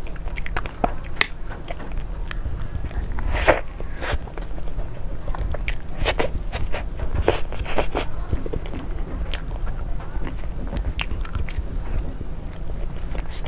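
Close-miked mouth sounds of someone biting and chewing food, with many irregular sticky clicks and small crunches over a steady low hum.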